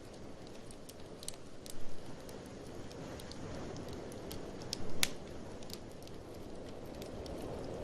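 Wood fire in a fireplace crackling, with scattered sharp pops (the loudest about two and five seconds in), over a steady low rush of blizzard wind.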